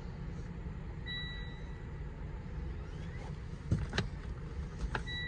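A short single-pitched electronic beep about a second in, followed by a few light clicks, over a steady low background rumble.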